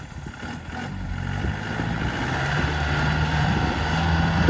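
Off-road vehicle's engine running under load, growing steadily louder as it pulls through the mud.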